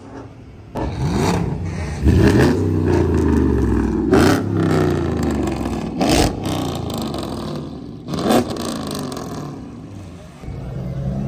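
A car engine revving, its pitch climbing about a second or two in and held high, with several sharp cracks along the way.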